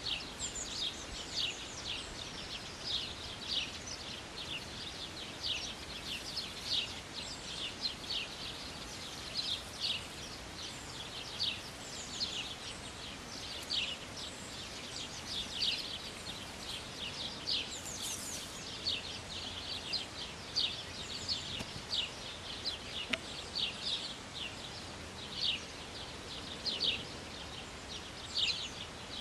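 Small birds chirping, a steady string of short, high, quick chirps several times a second, over a low hiss of outdoor background noise.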